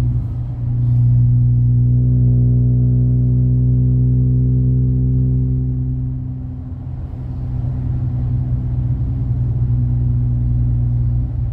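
Car engine and MagnaFlow Magnapack exhaust droning steadily at a constant cruise, a deep hum with a steady overtone. It eases off briefly a little past halfway, then comes back up.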